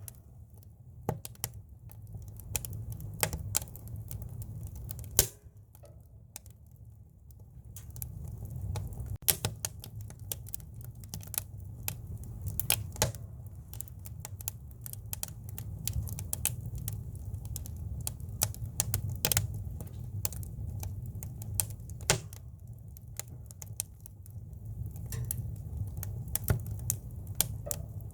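Firewood burning in a campfire, crackling and popping with irregular sharp snaps over a steady low rumble of the flames.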